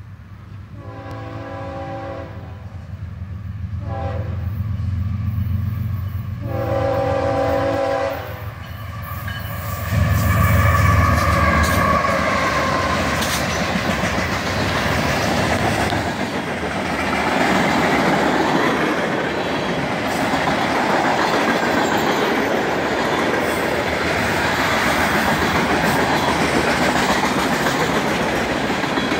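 CSX freight locomotive's air horn sounds for the grade crossing: a long blast, a short one, then another long one. About ten seconds in the locomotive reaches the crossing with a loud, low engine rumble, and then the freight cars (covered hoppers and tank cars) roll steadily past, their wheels clattering on the rails.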